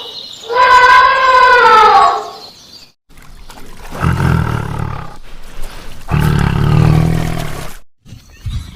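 A drawn-out animal call falling in pitch, then a big cat roaring twice, each roar a long low rumble.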